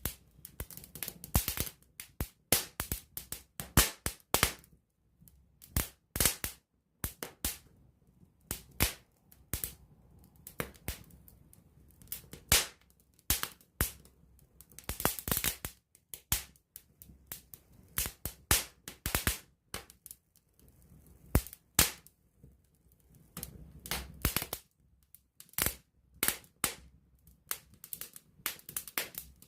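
Wood campfire crackling and popping close up: irregular sharp snaps, often in quick clusters, with short quiet gaps between.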